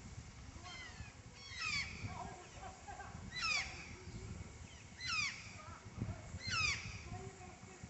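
A bird calling again and again outdoors: four loud calls, each sweeping down in pitch, about one and a half seconds apart, with fainter calls in between.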